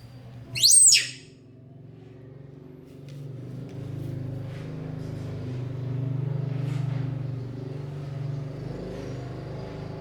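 A short, loud, high-pitched squeal from a small animal about half a second in, followed by a steady low hum, like a motor running, that swells through the middle.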